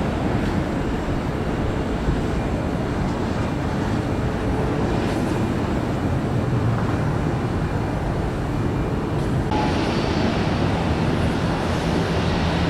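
Jet airliner engine noise: a steady, dense rumble. About nine and a half seconds in, a higher hiss comes up on top of it.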